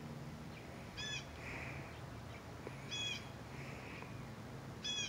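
A bird calling outdoors: three short, high calls about two seconds apart, over a faint steady low hum.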